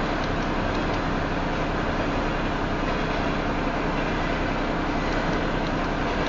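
Loaded freight train of tank cars rolling past at about 37 mph, a steady rumble of wheels on rail with a low hum underneath.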